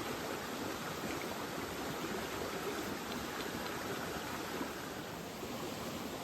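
Steady rush of river water flowing, with a few faint ticks.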